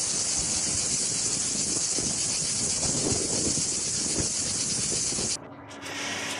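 Wildfire burning: a steady hiss with irregular crackling underneath. About five seconds in it cuts off abruptly to a quieter sound with a faint low hum.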